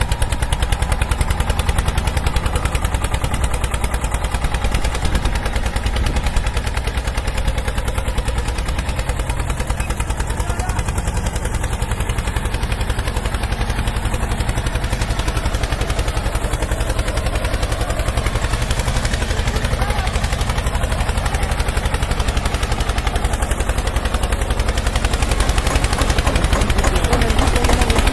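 Small engine running steadily with rapid, even firing pulses, growing slightly louder near the end.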